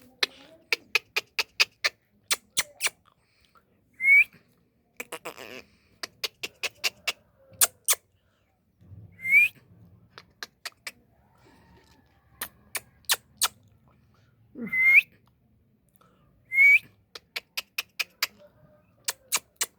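Indian ringneck parrot giving short rising whistles every few seconds, between quick runs of sharp clicks, several a second.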